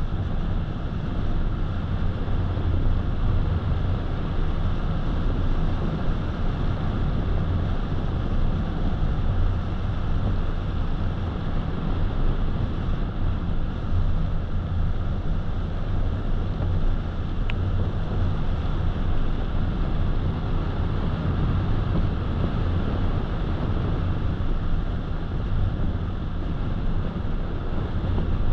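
Steady road noise from a moving car: a low rumble of tyres on pavement and engine hum, with some wind noise.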